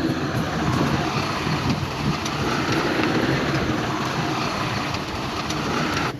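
Heavy diesel earthmoving machinery running steadily under load, with a low engine rumble and a few faint clicks.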